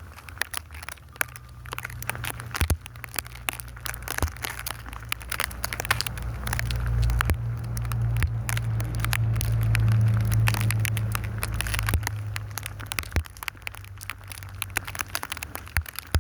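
A motor vehicle passes: a low engine hum builds over several seconds, is loudest about two-thirds of the way through and fades again. Over it, constant crackling and rustling from snow against the phone's microphone.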